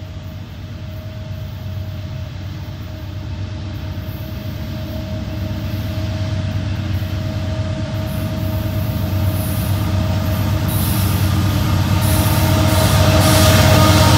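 Norfolk Southern freight train approaching behind GE diesel-electric locomotives, a DC-to-AC rebuild in the lead. The engines' low rumble grows steadily louder as the train nears, with a steady high whine above it.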